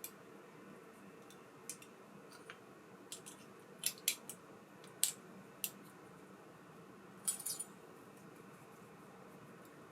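Small metal parts of a baitcasting reel clicking and clinking as they are handled, in scattered single taps and quick clusters over a faint steady hum.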